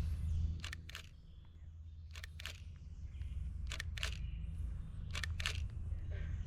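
A frog calling: short sharp clicks in pairs, repeated about every one and a half seconds.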